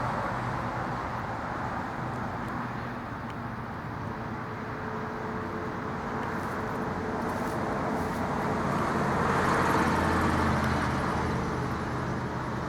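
Motor vehicle engine running steadily with road noise. It grows louder about nine seconds in and eases off near the end.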